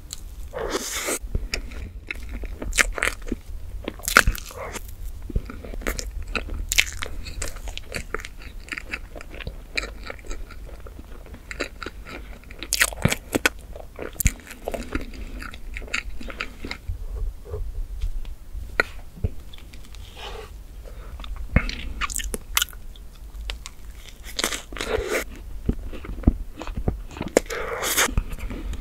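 Close-miked chewing and wet mouth sounds of a person eating chocolate whipped-cream cake, with many short sharp clicks scattered throughout.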